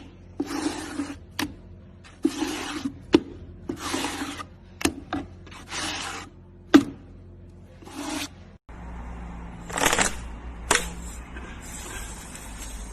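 Repeated scraping strokes, one about every second and a half, with sharp clicks between them. After a sudden break near the end the sound changes to a steadier hiss with one louder scrape.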